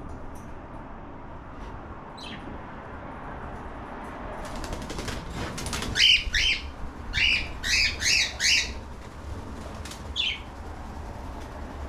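Cockatiel chirping: a quick run of about six loud, sharp chirps in the middle, with single softer chirps before and after. A brief rustling rush comes just before the run.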